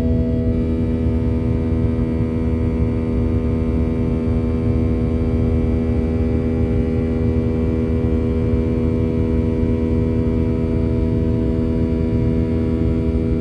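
Cabin hum of a Boeing 737-800 airliner with its CFM56-7B engines running: a steady low rumble with several held tones on top.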